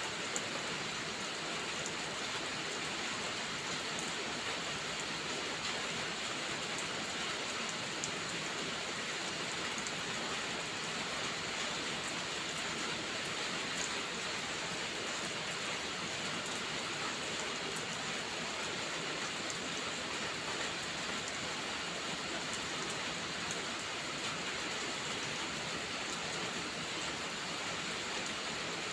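Steady heavy rain, an even hiss, with faint sharp crackles from a wood fire scattered through it.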